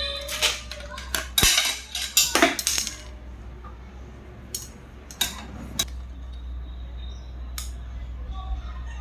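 Metal clinks and scrapes of small parts and tools being handled: a burst of them in the first three seconds, then a few single clicks, over a steady low hum.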